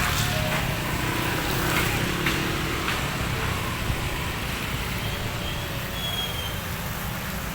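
Strong wind blowing hard and buffeting the microphone with a steady low rumble, with a few faint knocks or rattles in the first three seconds.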